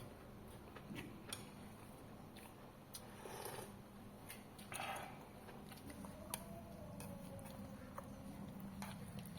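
Scattered light clicks and clinks of cutlery against bowls during a meal, with a couple of brief soft eating noises.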